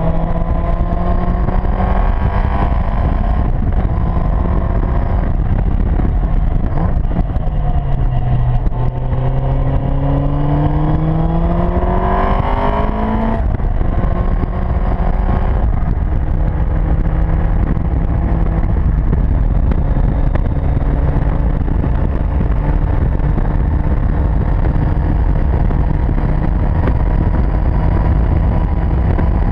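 Seven sports car's engine heard from the open cockpit at speed, under heavy wind noise on the microphone. The revs rise and fall back about three seconds in. They climb long and steadily to a sharp drop about halfway, the pattern of accelerating through a gear and shifting up, then hold a steady note.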